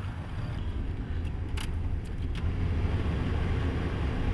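Car running, heard from inside the cabin as a steady low rumble, with a few light clicks between about one and two and a half seconds in.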